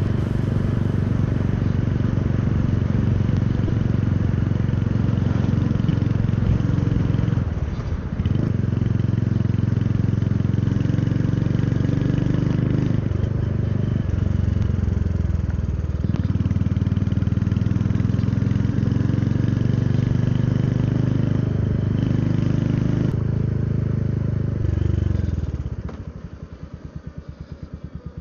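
Royal Enfield Hunter 350's single-cylinder engine running while riding, with a few brief dips along the way. Near the end it drops to a much quieter, even pulsing, like an idle.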